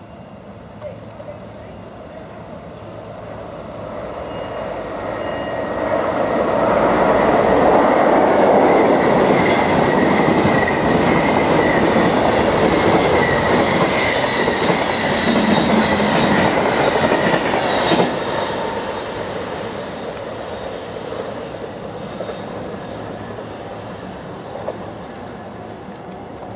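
A train passing through a station: the rumble of wheels on rail grows over several seconds, holds loud for about ten seconds with a high squeal from the wheels, then fades away.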